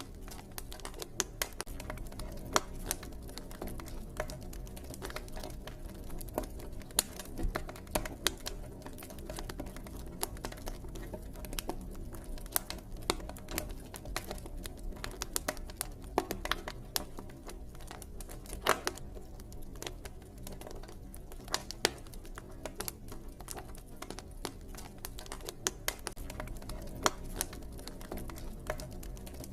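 Campfire wood crackling: a dense, irregular run of small snaps with a few sharper pops, over a steady low rumble.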